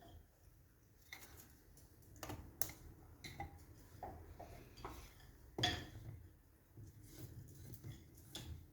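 Scattered light knocks and clinks of firewood and kindling being handled at a wood fire, with one louder knock about five and a half seconds in.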